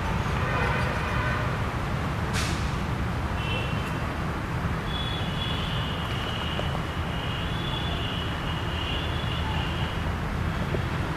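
Steady low rumble of road traffic. A faint, thin, wavering high tone comes in about a third of the way through and lasts several seconds.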